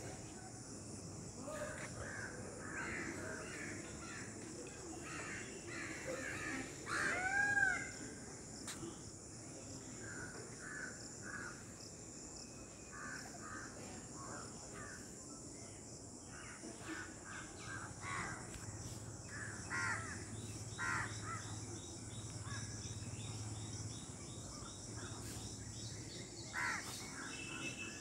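Birds calling: many short, harsh calls repeated throughout, the loudest a brief curving whistle-like call about seven seconds in, over a steady high hiss.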